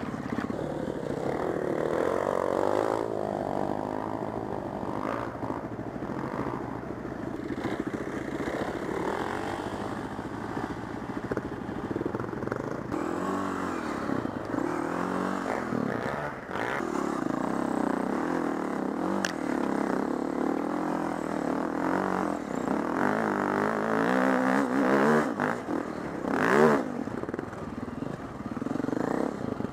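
Four-stroke enduro dirt bike engine revving up and down as it is ridden, its pitch repeatedly rising and falling, with a sharp loud rev near the end.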